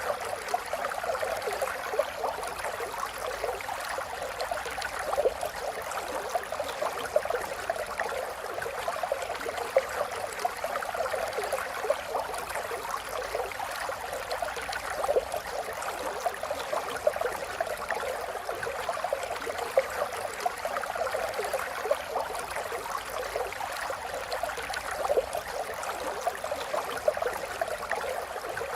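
Running water flowing steadily, with a constant patter of small splashes.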